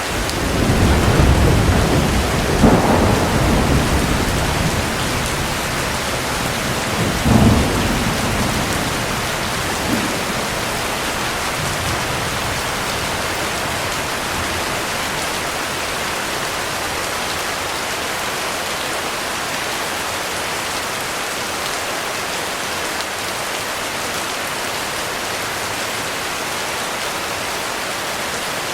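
Heavy, steady rain with a thunderclap rolling over it. A low rumble swells in the first seconds, with sharper cracks about three and seven seconds in and a last small one near ten seconds. It then fades, leaving only the even hiss of the rain.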